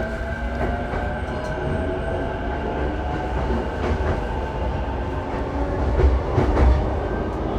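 Saikyo Line electric commuter train running at speed, heard inside the car: a steady rumble of wheels on rail with a faint motor whine and a few rail-joint clacks, the loudest about six seconds in.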